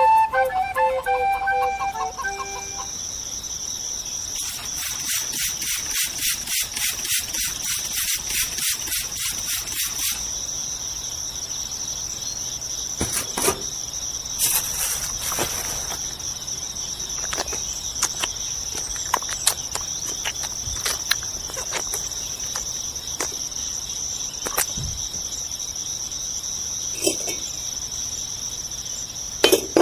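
Steady high-pitched insect trill, like crickets, with a quick pulsing chirp for several seconds early on and scattered sharp clicks. The tail of a flute melody fades out in the first two seconds.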